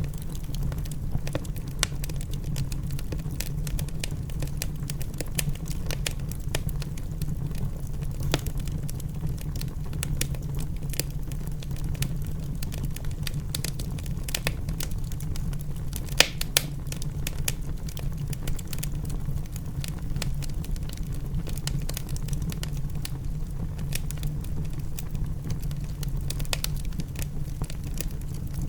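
Wood fire in a fireplace crackling: irregular sharp pops and snaps over a steady low rumble, with one louder pop about sixteen seconds in.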